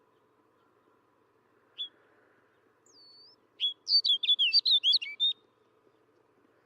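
Snow bunting singing: a single short note, then a thin sliding whistle, then a quick run of warbled high notes about four to five seconds in.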